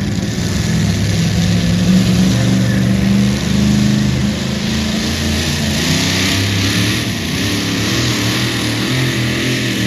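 Engine of a pulling vehicle running hard, its pitch wavering up and down, with a strong steady hiss over it.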